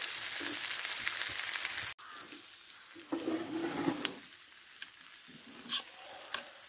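Chicken wings and vegetable rice sizzling in a hot pan on a wood-burning stove, while tongs and a spatula stir the food, with metal clicking against the pan now and then. The sizzle drops quieter about two seconds in.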